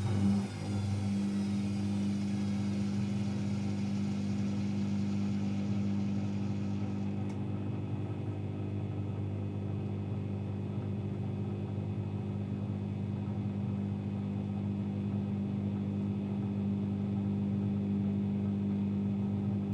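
AEG Lavamat L74810 washing machine running with a steady low hum that sets in abruptly. A faint click comes about seven seconds in, where a faint hiss stops.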